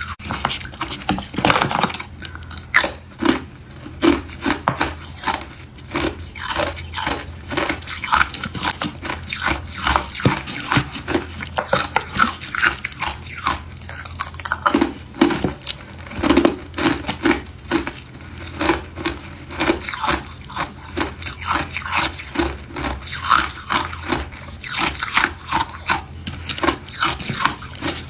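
Hard ice cubes being bitten and chewed, a dense run of sharp crunches one after another.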